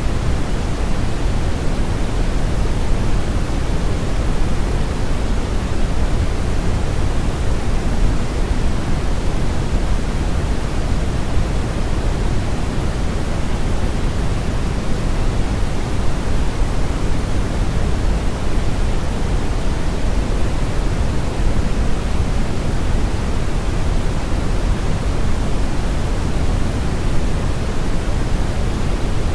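Steady brown noise: a constant deep rumbling hiss, heaviest in the bass and softer in the treble, with no change in level.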